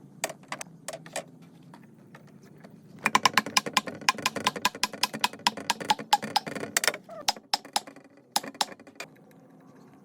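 A run of quick, irregular sharp clicks and taps: a few in the first second, a dense flurry from about three seconds in, then a few more before it stops near the end.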